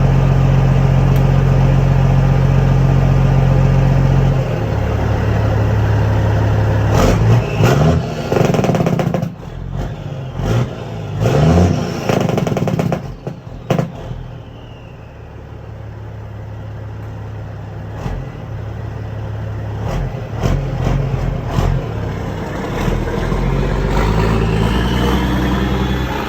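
Caterpillar C15 inline-six diesel running through a straight-pipe exhaust. It runs loud and steady, drops off about four seconds in, and then revs up and down several times with short gaps. After that it runs lower and steady, and climbs again near the end.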